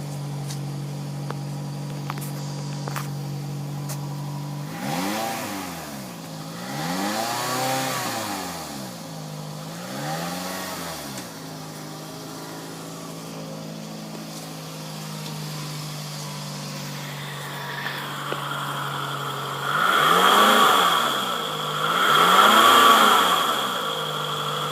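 MINI car engine idling, heard from the exhaust at the rear, then revved with the throttle: three short revs about five seconds in, a spell of idle, and two louder revs near the end, each rising and falling back to idle.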